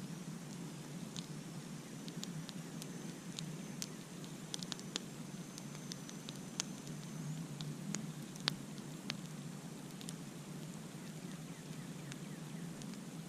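Campfire crackling: irregular sharp pops and snaps over a steady low rush, the loudest pop about eight seconds in. A faint thin high tone hangs in the background for several seconds in the first half.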